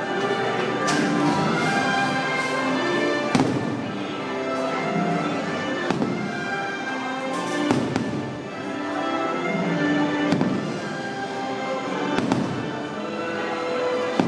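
Fireworks bursting with sharp bangs every couple of seconds over the show's loud accompanying music.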